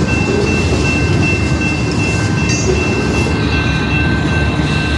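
Railroad cars of a passing train rolling by close at hand: a loud, steady rumble with a thin, steady high-pitched whine above it.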